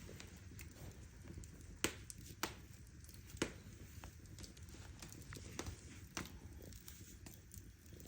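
Wood fire in a fireplace crackling, with irregular sharp pops; the loudest three come around two to three and a half seconds in.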